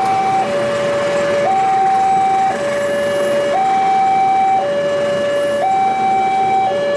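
A two-tone warning siren alternating steadily between a higher and a lower note, about a second each, over a continuous rumble of noise.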